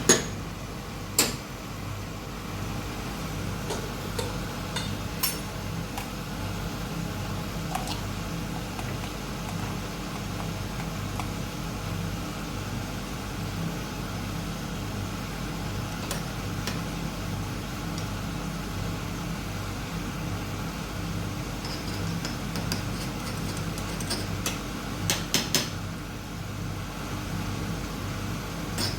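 A steady low mechanical hum with a regular pulsing, and a few sharp clinks of metal pots or utensils. The clinks come once about a second in, here and there after, and as a quick cluster a few seconds before the end.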